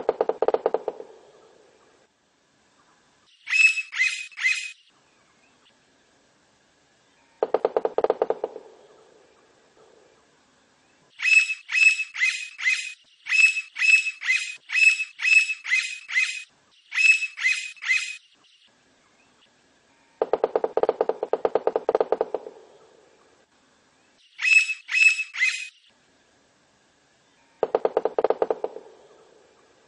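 Blond-crested woodpecker calling in quick groups of sharp, high, ringing notes, with a long run of them in the middle. Between the calls come four short bursts of rapid, low drumming.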